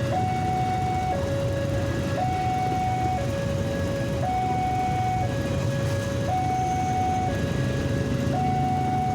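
Level crossing warning signal: an electronic two-tone alarm switching between a higher and a lower tone about once a second, repeating steadily. A constant low rumble runs beneath it.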